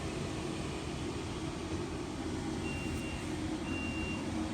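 A heavy vehicle's engine running steadily, with a reversing alarm starting to beep about two and a half seconds in, roughly once a second.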